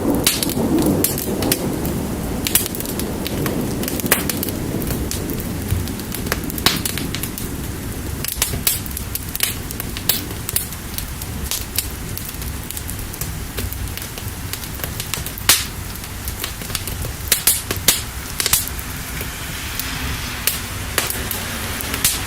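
Fire crackling with frequent sharp pops over a steady hiss of rain. A low rumble of thunder dies away over the first several seconds.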